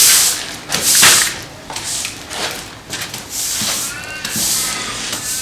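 Broom sweeping up leftover mess, a run of short swishing strokes about one a second.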